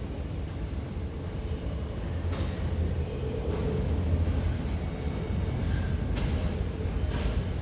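Freight train hauled by an EH500 electric locomotive passing beneath: a steady low rumble of steel wheels on the rails, with a few faint clacks.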